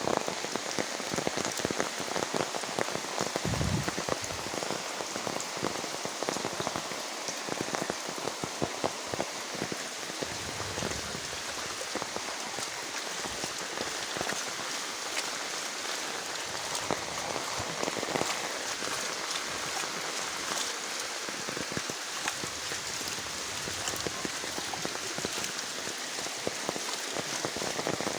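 Rain falling steadily, a dense patter of drops striking surfaces.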